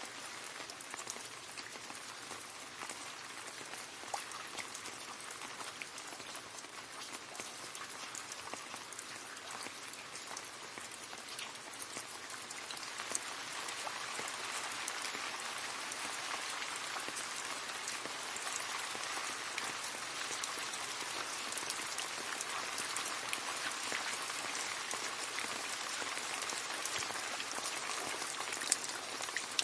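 Rain falling steadily into a puddle, a constant patter of many drops splashing on water, growing a little heavier about halfway through.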